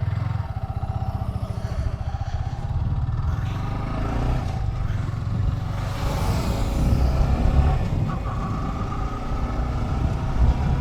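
Motorcycle engine running just after being started, idling with an even pulse, then its revs rise and it gets louder from about four seconds in as the bike moves off.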